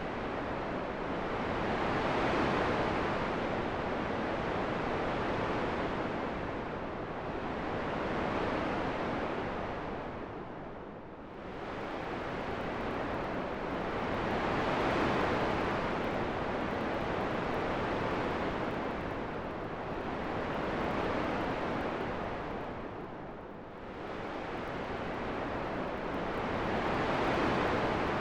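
Steady rushing wind, an even noise that swells and eases every few seconds and dips briefly twice.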